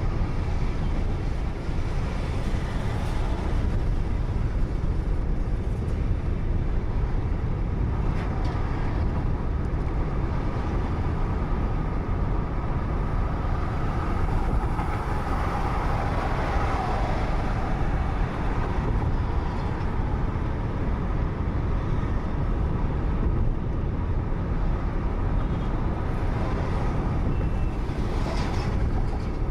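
Steady road and engine noise of a moving car, picked up by a dashcam inside the car, with a slight swell around the middle.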